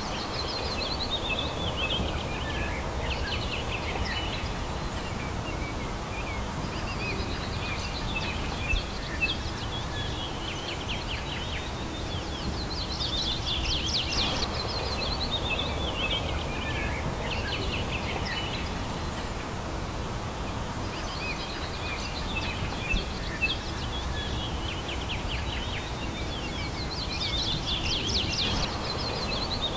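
Songbirds singing outdoors: rapid trilled phrases that fall in pitch, repeating every several seconds. A steady low background hiss runs underneath, and a couple of brief soft knocks come about a third of the way in and again near three quarters.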